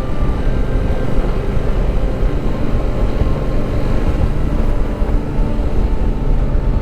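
Motorcycle riding along a road: a steady, unbroken rumble of engine and road noise.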